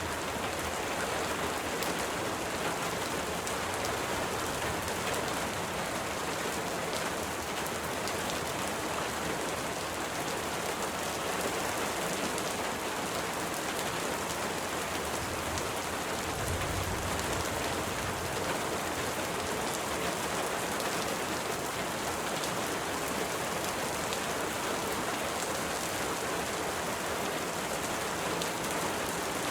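Steady rain falling: a dense, even hiss of rain with many single drops ticking through it, and a brief low rumble a little past halfway.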